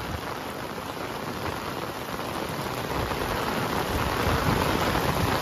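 Heavy rain pouring steadily, growing louder through the second half, with a deeper rumble building near the end.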